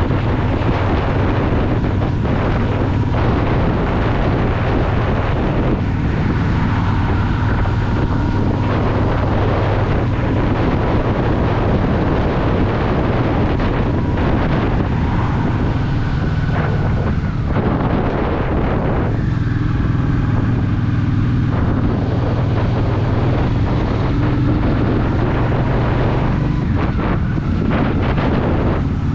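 Honda Shadow VT750's V-twin engine running as the motorcycle rides along, with heavy wind noise on the microphone. The engine note shifts several times as the rider changes speed.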